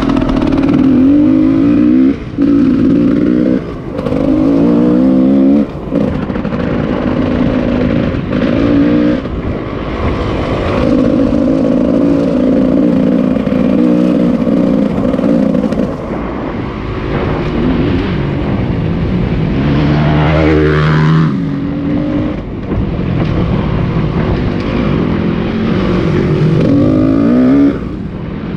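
Car engine accelerating hard under load, its pitch climbing and then dropping sharply at each gear change, three times in the first six seconds. It holds a steady pace for a while, dips and climbs again about twenty seconds in, and shifts once more near the end.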